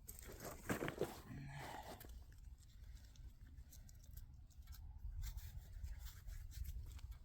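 Faint scratching and crumbling of soil being worked by hand at a dirt-hole trap set, with a cluster of sharper clicks about a second in and scattered light ticks over a low rumble.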